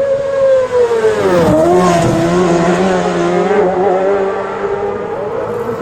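Racing sidecar outfit's engine passing at high speed; the engine note drops sharply about a second and a half in, then holds steady.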